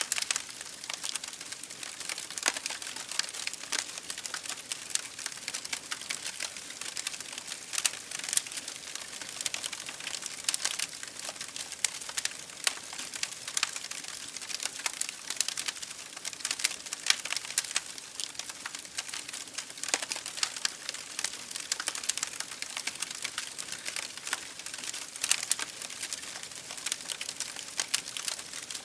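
Wood fire burning in an open fireplace, crackling steadily with many irregular sharp pops and snaps over a soft hiss.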